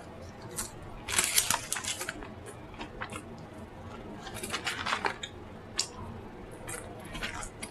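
Close-miked mouth eating sounds: wet chewing and smacking clicks, with clusters of crackly clicks about a second in and again a little past the middle.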